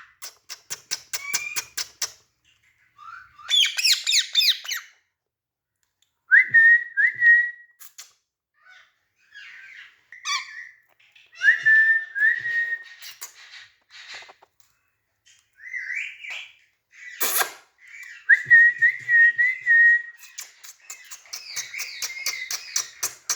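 A pet green parrot whistling and chirping in short bouts. It gives repeated short whistles on about the same pitch, each rising at the start, mixed with rapid clicking chatter, and one sharp click partway through.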